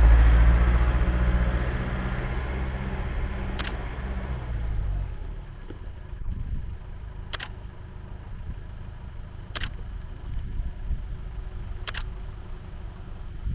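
A 4x4 vehicle's engine running, loud at first and fading away over the first five seconds, leaving a lower steady rumble. Four sharp clicks come at intervals of two to four seconds.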